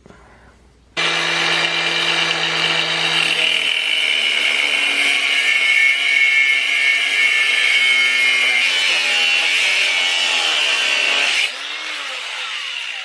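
Angle grinder starting up about a second in and cutting through a rusted rear-suspension part, a loud steady grinding that drops to a quieter, lighter note about a second and a half before the end.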